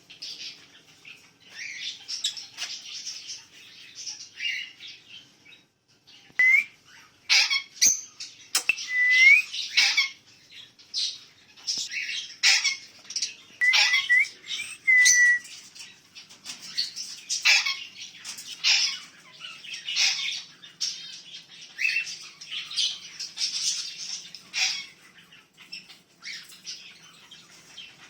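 A flock of small aviary birds chirping and chattering non-stop, with a short whistled note now and then.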